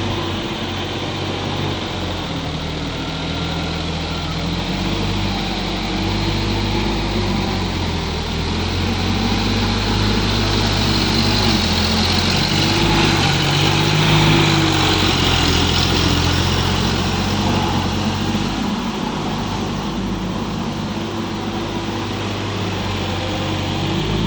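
Sonalika DI 50 RX tractor's diesel engine running steadily, getting slightly louder around the middle.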